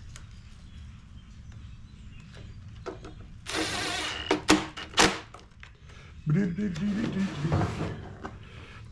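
Small metal parts being handled on a workbench: a short rattle, then two sharp clicks. After that, a man hums a wavering tune.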